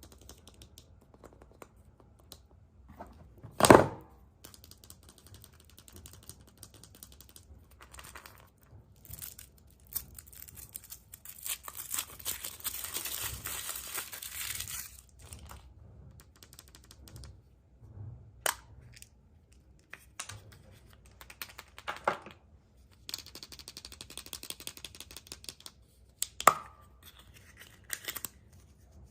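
Hands unwrapping surprise eggs: a wrapper crinkling and tearing for several seconds, with one loud sharp crack about four seconds in and a few smaller snaps and clicks later.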